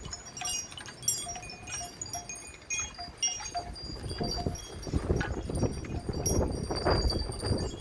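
Metal wind chimes ringing in strong gusty wind: many short bright high notes clinking together over a deeper chime note that sounds again and again. From about halfway, gusts rumble on the microphone and grow stronger.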